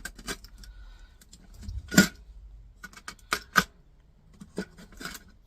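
A handful of sharp metallic clicks and taps from a tool working small brass pin receivers out of hard plastic. The loudest click comes about two seconds in.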